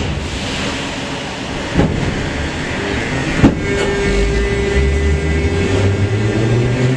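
Metro train pulling away from a station after the doors close: two sharp knocks, then from about four seconds in the low hum of the traction motors starting and rising in pitch as the train gathers speed.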